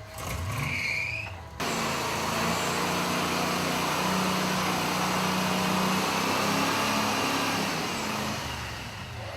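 Engine of a modified off-road competition truck running hard and steady under load. There is a brief high whine in the first second or so, and the sound changes abruptly about a second and a half in.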